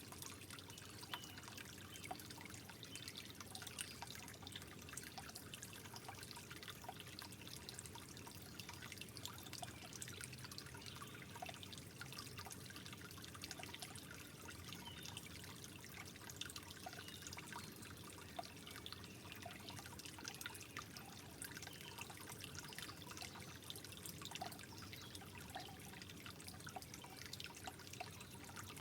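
Soft, steady trickling water with many small irregular drips.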